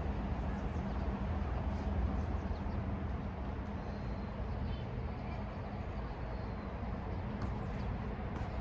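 Steady low rumble of outdoor background noise, like distant traffic, with a few faint ticks.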